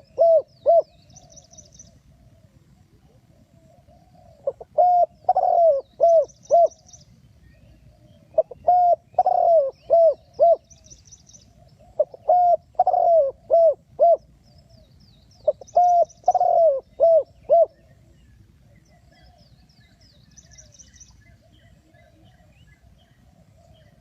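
Spotted dove cooing: phrases of about five low coos, repeated four times roughly every four seconds after the tail of one phrase, then a pause of several seconds. Faint high chirps from a smaller bird recur in the background.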